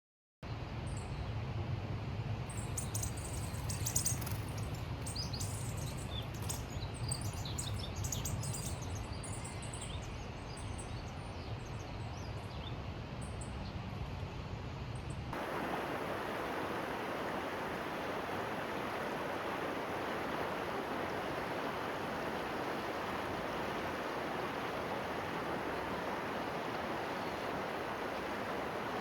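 Small birds chirping over a low, steady rush of water. About halfway through the sound changes abruptly to an even, brighter hiss of rain and running water.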